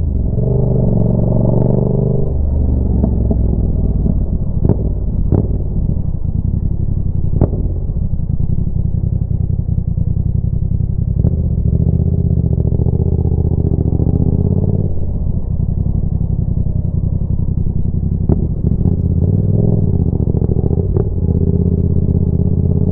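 Yamaha MT-07 parallel-twin engine running loud through a Roadsitalia exhaust with the dB killer removed, its engine speed rising and falling. Sharp exhaust pops and cracks come through it, several in the first eight seconds and a cluster near the end.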